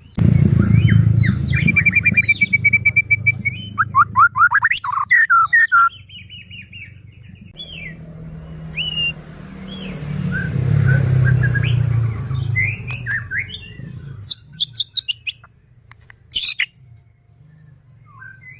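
White-rumped shama singing loudly: a varied run of whistles, sweeping notes and fast rattling trills, with a low rumble underneath through much of it.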